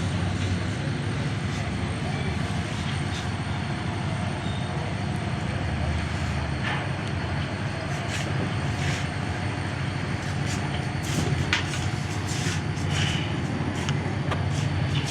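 Steady low rumble of vehicle noise, with scattered light clicks and knocks in the second half.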